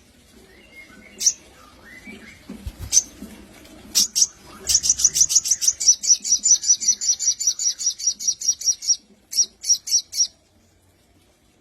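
Crimson sunbird (sogon) singing: a few single sharp, high chirps, then a long rapid trill of high notes at about eight a second. The trill ends in a few slower notes near the end.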